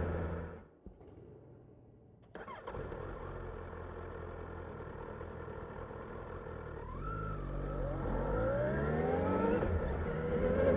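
Kawasaki Ninja 1000SX inline-four engine. Its sound drops away for about a second and a half, then comes back in abruptly and runs steadily. From about two thirds of the way in, the revs climb as the bike accelerates, with a break in the rising pitch for a gear change before it climbs again.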